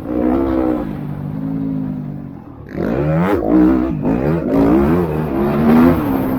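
Motocross bikes revving and accelerating, their engine pitch rising and falling with throttle and gear changes. About three seconds in, more bikes join and the revving gets louder and busier.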